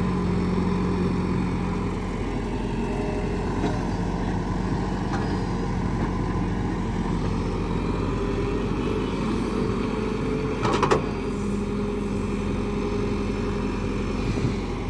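Excavator's diesel engine running steadily, with a brief cluster of knocks about eleven seconds in.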